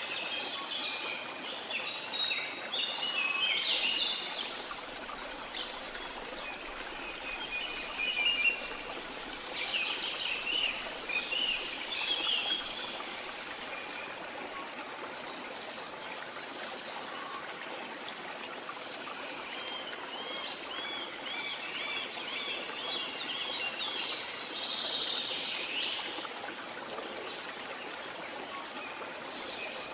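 Steady running water of a waterfall, with birds singing over it in several bouts: a cluster of calls in the first few seconds, more around the middle, and a quick run of repeated chirps about two-thirds of the way through.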